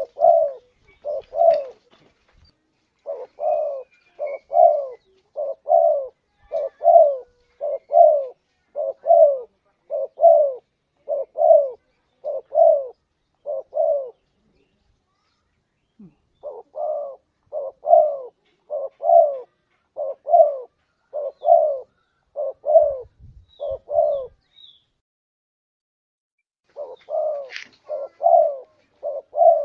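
Spotted dove (tekukur) cooing: short mellow coos repeated about two a second in long runs, broken by pauses of a couple of seconds. This is a competition-bird call used as a lure to draw in wild spotted doves.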